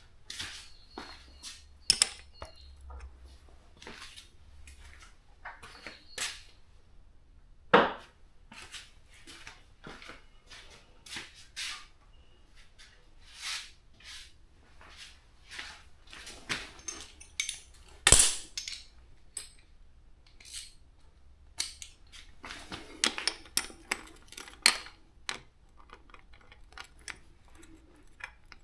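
Metal tools and parts clinking and clanking at irregular intervals, with a few louder sharp clanks about two, eight and eighteen seconds in.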